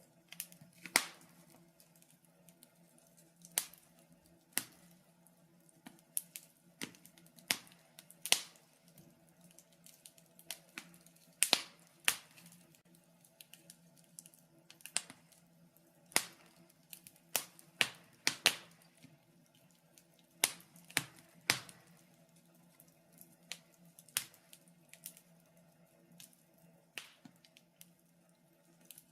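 Wood fire in a fireplace crackling, with irregular sharp pops and snaps, a few every second or two, over a faint steady low hum.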